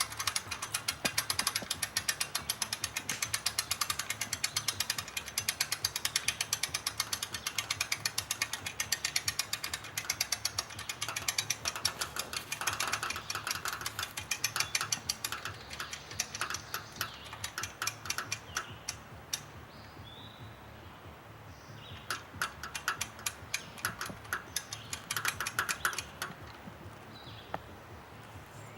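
Ratchet mechanism of a PravIlo training rig clicking rapidly and steadily as the rig is worked upward, then in shorter bursts with pauses near the end.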